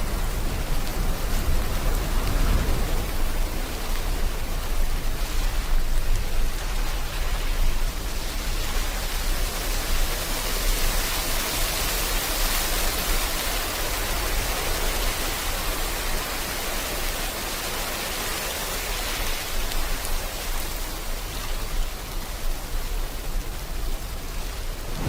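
Steady rain hiss mixed with sea surf, with a low rumble beneath. A broad wash swells up near the middle and fades again.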